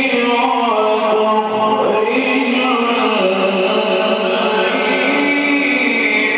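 A man's voice chanting Quran recitation (tajweed) in long held notes with ornamented turns in pitch.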